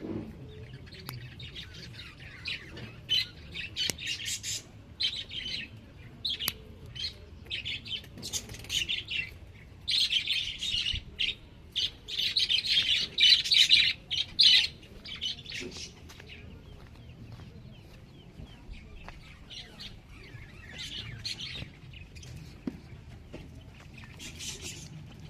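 Small birds chirping in quick, overlapping bursts, busiest about ten to fifteen seconds in and thinning out to occasional chirps in the second half.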